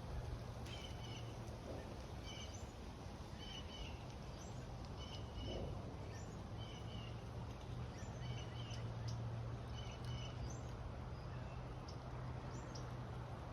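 A bird chirping over and over, short high chirps about once a second with a brief pause near the end, over a low steady hum.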